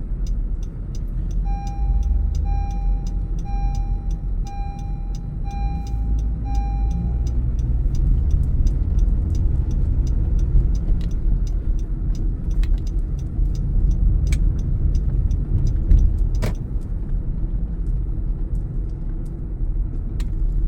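Car cabin rumble from engine and road noise while driving. A dashboard chime beeps about six times, roughly once a second, from shortly after the start until about a third of the way through.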